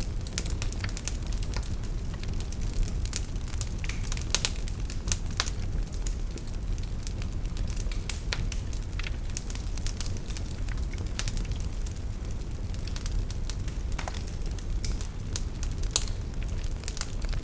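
Wood fire burning in a fireplace: a steady low rumble of the flames with irregular sharp pops and crackles from the burning logs.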